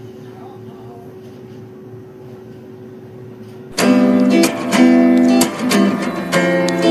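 Mito AF8 digital air fryer running with a steady fan hum and one constant tone. About four seconds in, loud strummed acoustic guitar music cuts in over it.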